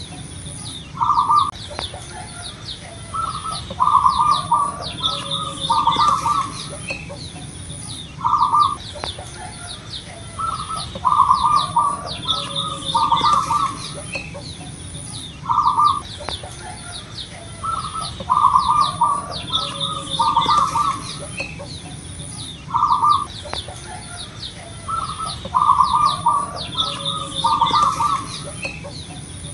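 Zebra dove (perkutut) cooing: phrases of several short, soft notes that repeat every few seconds in a regular pattern. Faint chirping of small birds and a steady, pulsing high-pitched buzz run underneath.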